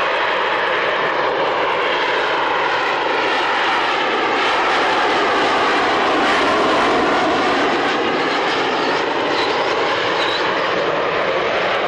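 Aircraft engine noise from a display flypast, steady and loud, with several pitched tones sliding slowly up and down as the aircraft moves past.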